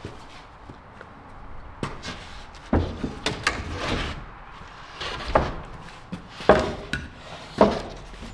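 Wooden boards being handled and fitted into a wall gap: a series of irregular wooden knocks and clunks.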